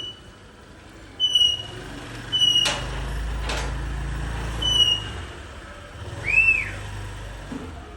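A bird whistling like a person: a few short clear whistled notes, then a longer rising-and-falling whistle near the end. A low traffic rumble swells in the middle, with two sharp clicks.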